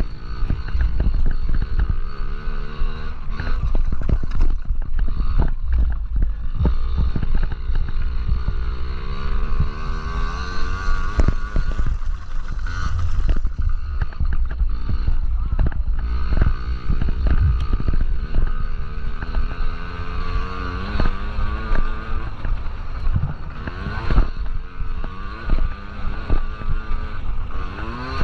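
Yamaha PW50 minibikes' small two-stroke single-cylinder engines revving up and down over and over as they race, several engines overlapping. Wind buffets the microphone throughout.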